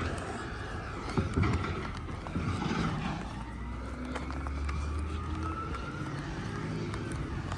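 Garbage truck engine running with a steady low drone, a few knocks in the first couple of seconds, and a faint whine drifting up and down.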